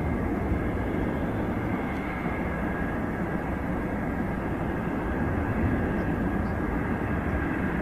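Jet airliner engines running steadily: a deep rumble with a steady high whine above it.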